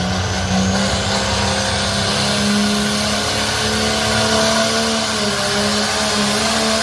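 Pulling truck's engine running hard at steady high revs as it drags the weight sled down the track.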